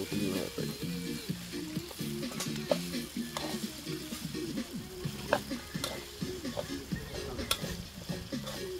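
Rice frying in a wide metal pan, with a steady sizzle and a metal spatula scraping and clinking against the pan as it is stirred, a few sharper clinks standing out. Background music plays underneath.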